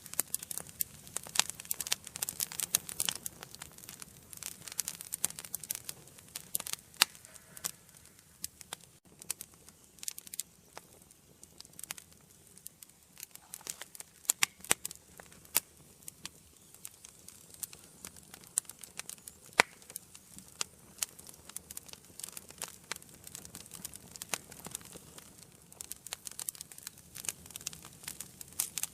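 Wood fire burning in a fireplace, crackling with many sharp, irregular pops over a soft steady hiss.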